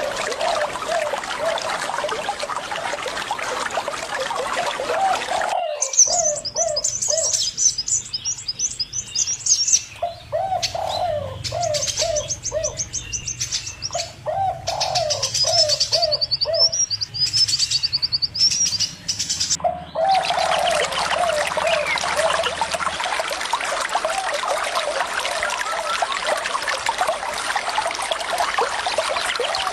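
Running water with birds calling over it: repeated series of short, low, dove-like calls throughout. About six seconds in, the water sound cuts off and high twittering takes over, and the water returns about twenty seconds in.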